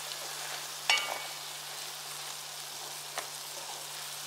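Shrimp, squid and cauliflower sizzling steadily in soy sauce in a pot. About a second in there is a sharp clink with a short ring, and a lighter tap comes near three seconds.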